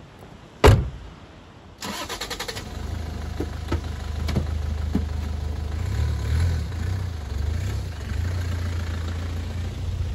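A car door shuts with a single loud thunk, and about a second later a Mini hatchback's engine is cranked by the starter, catches and settles into a steady low idle, wavering briefly in the middle.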